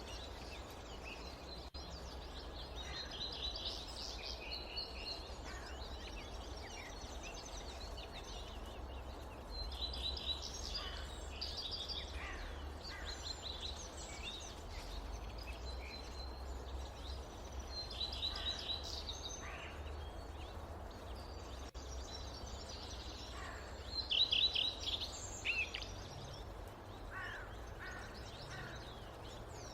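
Forest ambience: several songbirds singing and calling, with quick trills of short high notes coming every few seconds, the loudest near the end, over a steady low rumble.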